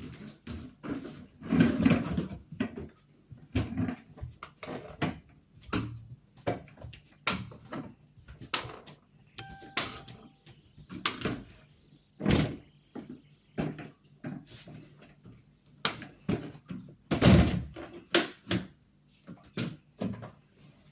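Irregular knocks, bumps and clatter of objects being handled, pushed and set down in a small room, with a few louder thuds, and a brief thin squeak-like tone about halfway through.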